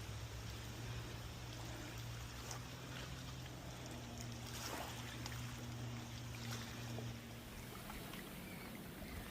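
A motor's steady low hum, with a higher steady tone joining a few seconds in, both fading out near the end, over a faint wash like running water.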